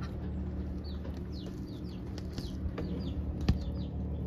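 Small birds chirping: quick high chirps that fall in pitch, several a second, over a steady low hum. A single sharp knock comes about three and a half seconds in.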